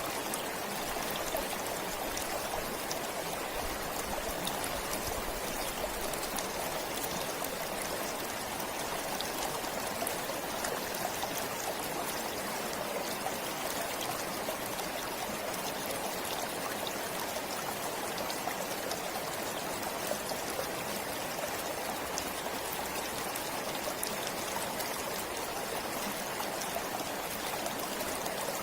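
Forest stream flowing and trickling over rocks, a steady rush of water with fine splashing.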